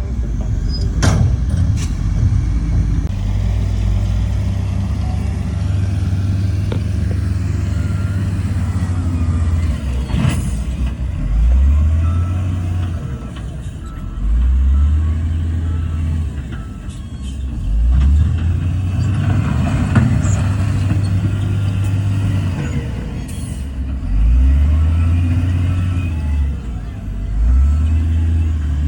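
Heavy diesel engine of earthmoving machinery running hard, its pitch rising and falling again every few seconds through the second half, with a few sharp clanks.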